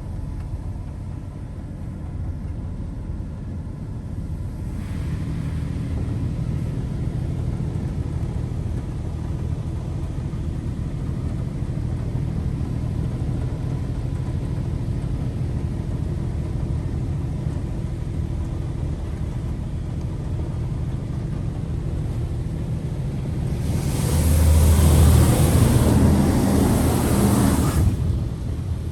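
Washworld High Velocity touchless in-bay car wash running mid-cycle: a steady low rumble, with a loud rush of high-pressure water or air passing over the car for about four seconds near the end.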